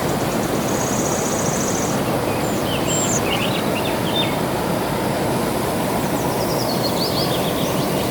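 Steady rush of flowing water with songbirds calling over it: a fast, high trill about a second in, then short chirps in the middle and again near the end.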